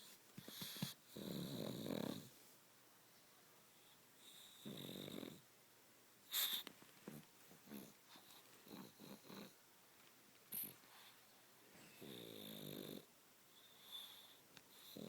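Sleeping pet dog snoring: a few long, rough snores a few seconds apart, with a couple of short sharp ticks between them.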